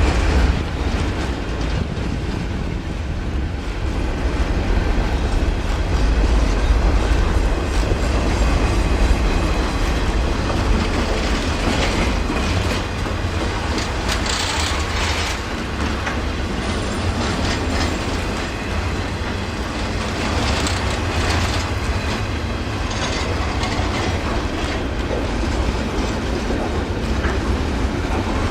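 Train cars rolling past at speed: a steady heavy rumble with clicking wheels. Brief sharper, higher rattles or squeals come through a few times around the middle.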